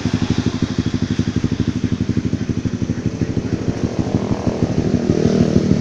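Honda CB150R single-cylinder engine running near idle through an aftermarket Akrapovic exhaust, a steady, even pulsing of about ten beats a second. From about four seconds in, the engine picks up slightly and gets a little louder.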